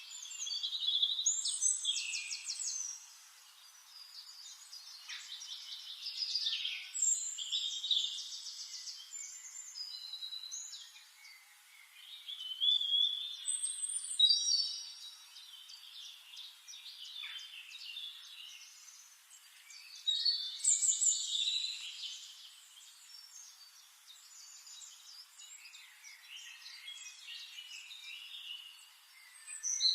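Songbirds singing: overlapping chirps, trills and whistled phrases from several birds, coming in bursts every few seconds.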